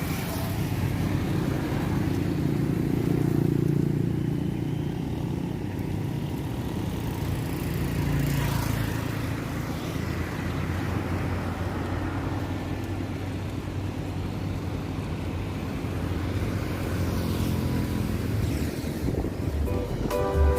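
Road traffic noise: a steady low rumble of motor vehicles, swelling a few times as vehicles pass.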